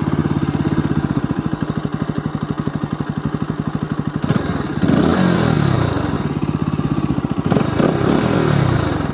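Motorcycle engine ticking over with a rapid, even putter, then from about five seconds in rising and falling in pitch as the rider opens the throttle and rolls on at low speed.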